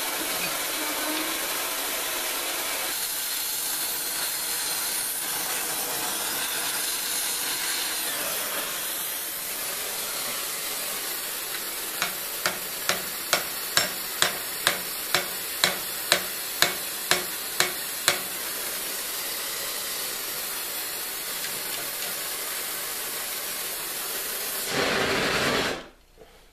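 Oxyacetylene torch hissing steadily as it heats steel pipe. Partway through, a run of about a dozen hammer blows on the hot pipe, roughly two a second, drive the pipe onto itself to form a bamboo-like joint. Near the end the hiss swells briefly and cuts off suddenly.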